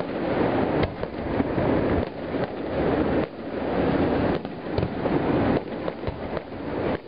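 Aerial fireworks going off one after another: booming shell bursts run together into a continuous rumble, with many sharp cracks on top.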